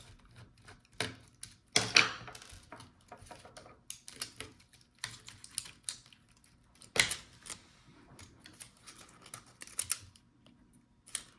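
Irregular clicks and taps of a screwdriver and small screws against a laptop's plastic palmrest as screws are taken out, with a few louder scraping clatters.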